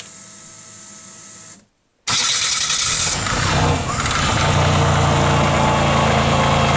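A snowmobile's Daewoo Matiz car engine starting up about two seconds in, after a faint steady hum that cuts out, then settling into a steady idle. It runs smoothly, with the belt-driven CVT (variator) turning without wobble.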